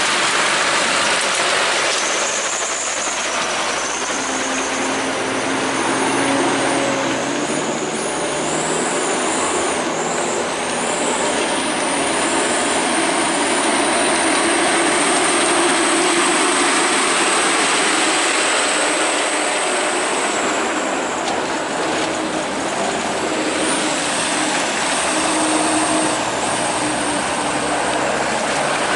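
Heavy truck engine running steadily under load, with a high whistle that wavers in pitch above it.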